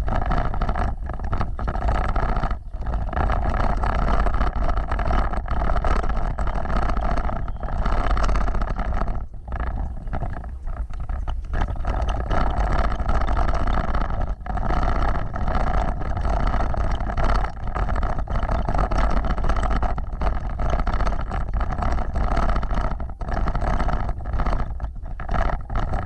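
Off-road vehicle driving along a dirt trail: a steady engine and road noise, broken by many brief dips in loudness.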